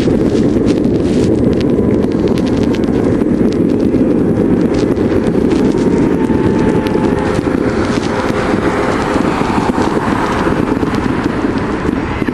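Fireworks popping and crackling in quick, irregular succession over a heavy, steady rumble of wind noise on the microphone.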